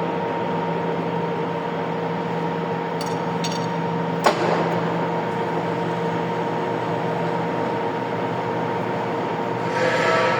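Metal lathe running at a steady speed: an even machine hum with a few steady tones under it, and a single sharp metallic click about four seconds in.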